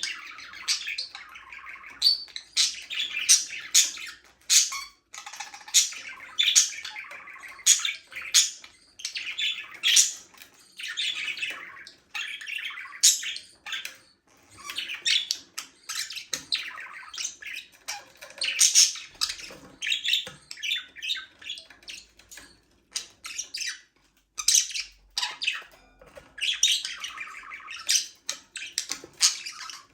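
A group of budgerigars chattering: a dense, unbroken run of chirps, warbles and harsh squawks.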